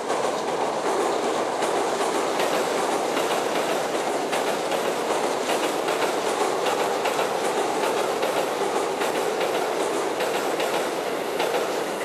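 Hokuso Railway 7300 series electric train running past over a bridge: a steady rumble of wheels on rail, with wheels clacking over the rail joints.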